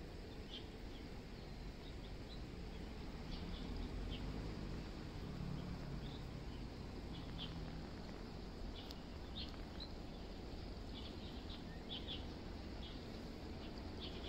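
Small birds chirping faintly in short, scattered high calls over a low steady rumble.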